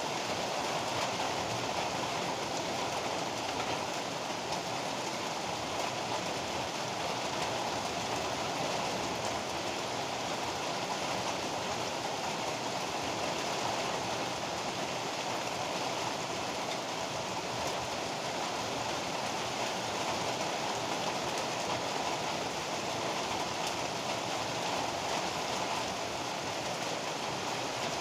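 Heavy rain pouring steadily, an even hiss with no thunder claps.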